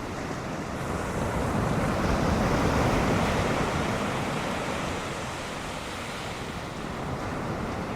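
Ocean surf breaking, a wave rushing in and swelling loudest about two to three seconds in, then easing, with wind.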